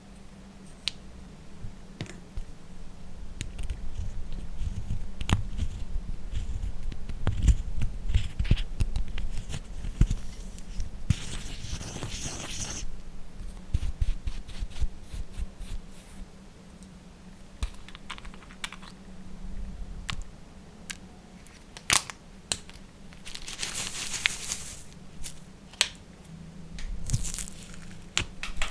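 Slime being handled and mixed by hand: scattered sticky clicks and pops, with two longer crackling, tearing stretches about eleven and twenty-three seconds in.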